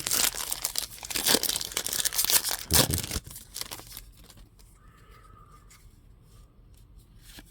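Trading-card pack wrapper being torn open and crinkled: dense crackling for the first three to four seconds, then only faint handling.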